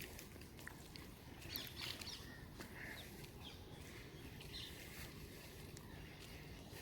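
Faint outdoor rain ambience: light rain with scattered drips and a few short bird calls over a low steady rumble.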